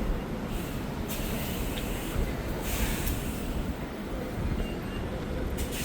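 Steady low rumble of city traffic, with a few short hissing bursts.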